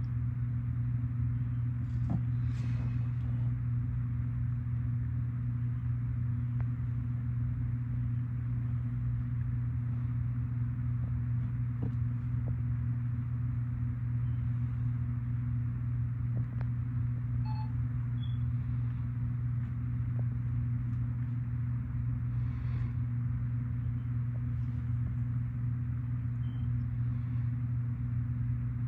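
A steady low hum that does not change, with a few faint ticks over it.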